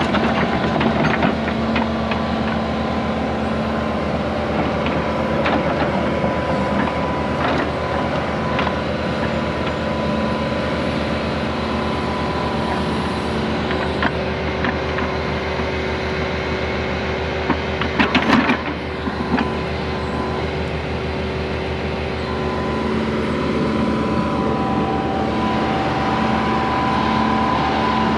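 Excavator engine running steadily under load with a constant hydraulic whine as it drags a waterline plow through the ground. Scattered knocks and clanks, with a brief loud clatter about two-thirds of the way through.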